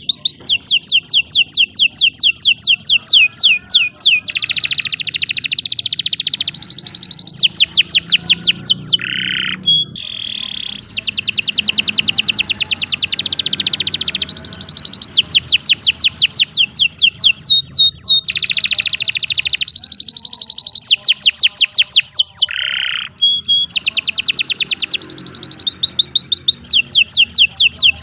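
Domestic canary singing a long, loud song of rapid trills: runs of fast, repeated notes sweeping downward, with short breaks about a third of the way in and again near the end.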